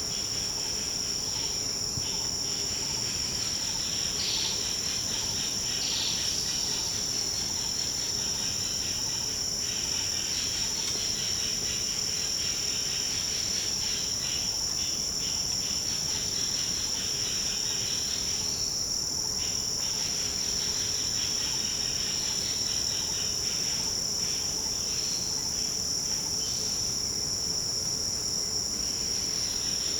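Dense tropical forest insect chorus: several steady, high-pitched trilling drones layered together, over a softer, busier pulsing layer of other calls lower down.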